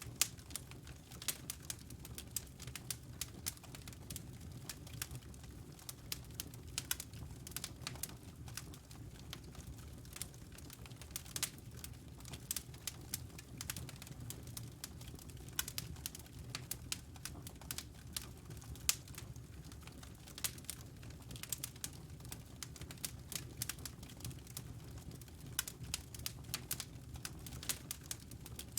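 Wood logs burning in a fireplace, crackling with frequent sharp pops and snaps over a low steady rumble.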